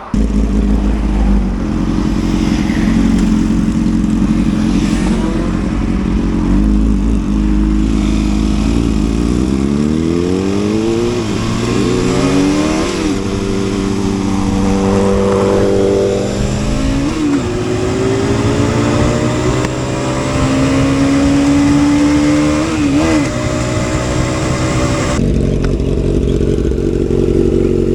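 Motorcycle engine accelerating hard, its pitch climbing and then dropping briefly at each of several gear changes, with heavy wind rumble on the microphone through the first ten seconds.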